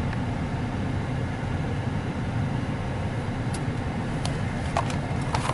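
Steady low rumble of a truck idling, heard from inside the cab, with a few faint clicks in the second half.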